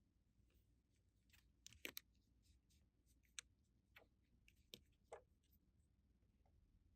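Near silence, broken by a few faint, scattered clicks and taps of small plastic toy pieces being handled.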